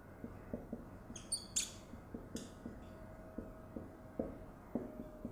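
Writing on a board: a few short high squeaks about a second in and again a second later, over faint irregular soft taps and a faint steady hum.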